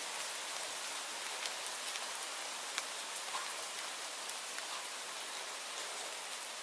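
Steady rainfall, an even hiss with scattered sharp drop ticks throughout.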